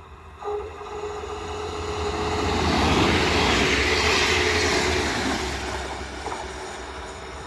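Train passing by, growing louder to a peak about three to four and a half seconds in and then fading, over a steady low hum.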